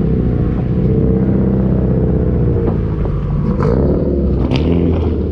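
Car engine running close by, its pitch rising and falling as it is revved in the middle. A couple of brief clicks come a little past the middle.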